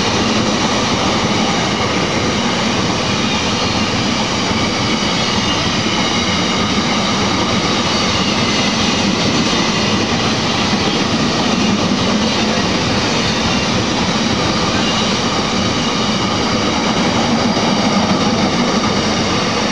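A freight train of empty container flat wagons passing close by at speed: steady, loud noise of the wagons' wheels running over the rails.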